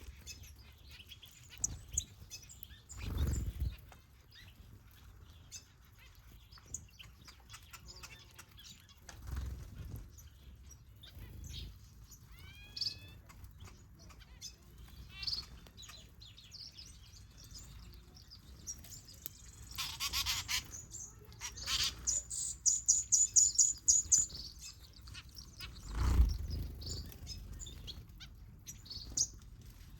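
Small aviary birds, finches and softbills, chirping and calling: scattered short high chirps and a few rising whistled notes, then a fast run of loud high chirps about two-thirds of the way through. A few low thumps break in now and then.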